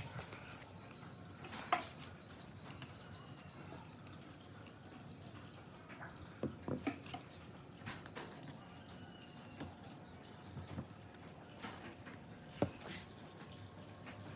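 A small bird singing a fast, high-pitched trill of rapidly repeated notes, heard three times, the first run about three seconds long. A few sharp knocks and clicks sound now and then.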